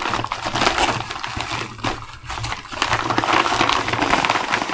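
Packaging being crinkled, rustled and torn open by hand, a dense run of small crackles as a heavily padded mail package is unwrapped.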